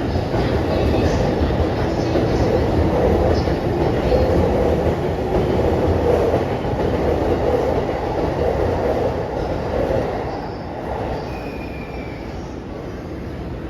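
A departing train's cars rolling past along the platform, a steady rumble of wheels on rail that dies down about ten seconds in as the train pulls away.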